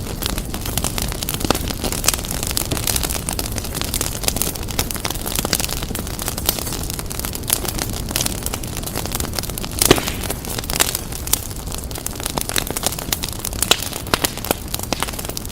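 Fire crackling and popping in a fireplace: many short sharp crackles over a steady low rumble, with one louder pop about ten seconds in.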